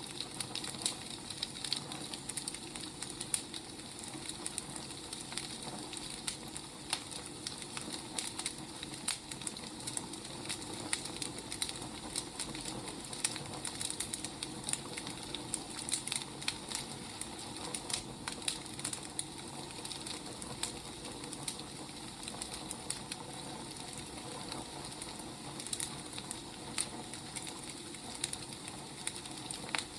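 Wood fire burning, with irregular crackles and pops over a steady hiss.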